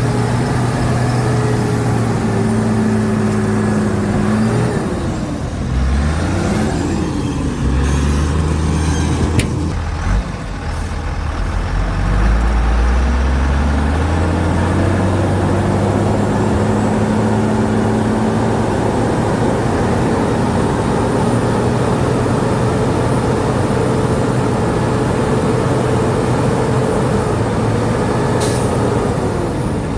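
Heavy diesel engine of earthmoving machinery running under load: the revs drop and dip low for a few seconds, climb again about twelve seconds in and hold high, then fall away near the end. A short hiss comes shortly before the end.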